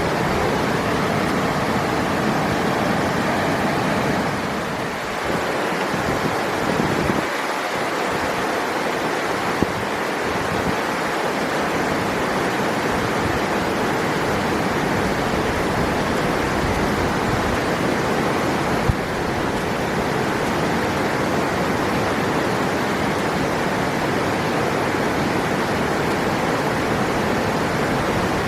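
River water rushing steadily, an even, full-bodied flow, with a couple of faint brief ticks.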